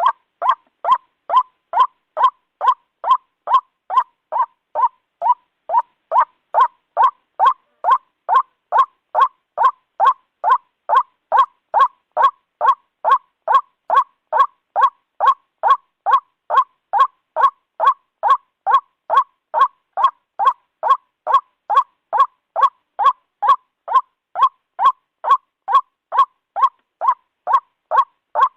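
White-breasted waterhen (ruak-ruak) calling the same loud croaking note over and over, evenly spaced at about two calls a second. This is a bird-lure recording used to call the species in.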